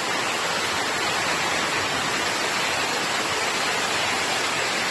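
Steady rushing of water, a constant even hiss with no distinct splashes, from heavy rain or running floodwater.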